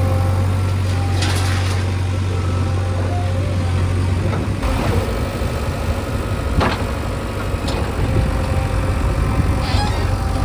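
Heavy diesel vehicle engine running steadily. Its low drone changes to a rougher rumble about halfway through, with a few sharp knocks or clanks over it.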